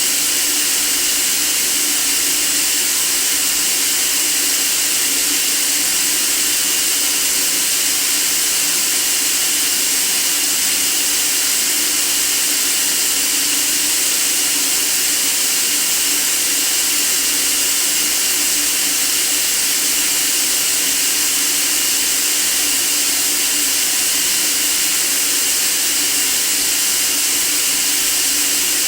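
Continuous white noise: a steady, even hiss weighted toward the treble, with no change.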